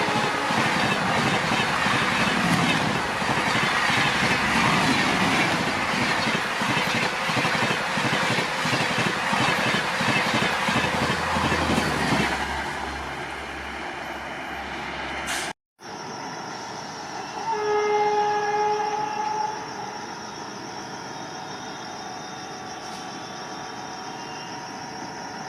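Indian Railways express train passing at speed, wheels clattering over the rail joints, the loud rushing noise fading away about halfway through. After a sudden break, a locomotive horn sounds once for about two seconds, followed by a quieter steady background with a faint high tone.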